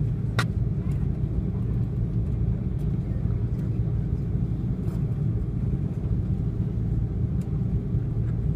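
Steady low rumble of an Airbus A330-300 airliner's engines and airflow heard inside the cabin, with one short click about half a second in.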